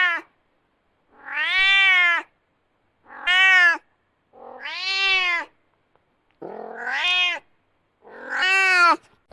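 A cat meowing over and over: about six drawn-out meows, each rising then falling in pitch, about a second and a half apart.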